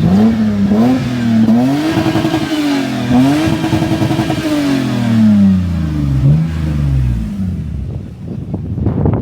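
Car engine being revved over and over, its pitch climbing and falling several times and held high twice, then dropping back and dying away near the end.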